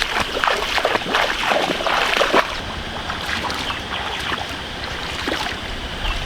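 Shallow muddy water splashing and sloshing as someone wades and grabs at fish by hand. The splashes are busy for the first couple of seconds, then fewer and softer, with scattered slaps.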